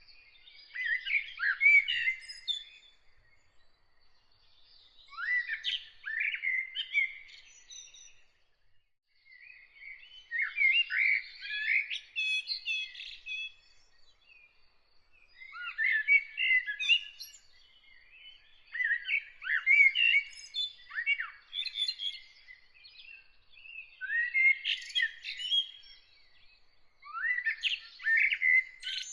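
A songbird singing short, varied phrases of whistles and twitters, about seven phrases, each a second or two long with a few seconds' pause between. A faint steady high tone runs underneath.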